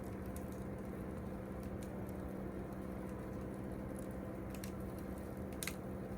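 Campfire wood crackling with scattered sharp pops, one louder pop near the end, over a steady low hum.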